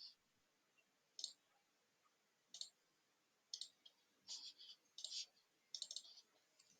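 Faint, scattered clicks of a computer mouse, about seven bouts, some in quick doubles or short runs.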